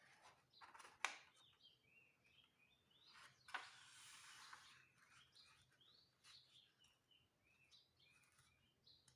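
Faint paper handling: a sheet of origami paper rustling and being creased, with a couple of sharp crackles about a second in and three and a half seconds in.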